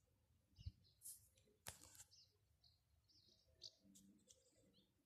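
Near silence with faint, scattered short chirps of small birds, plus a soft low thump early on and a single sharp click a little after.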